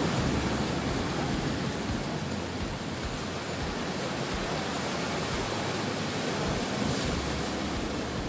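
Steady rushing noise with no distinct events, slightly louder near the start.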